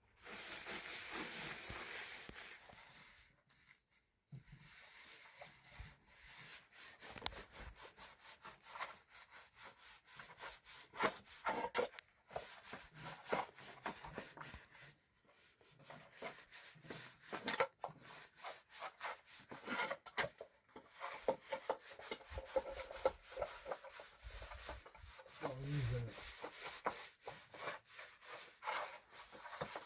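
Wood being worked by hand, a long run of quick, uneven rubbing strokes.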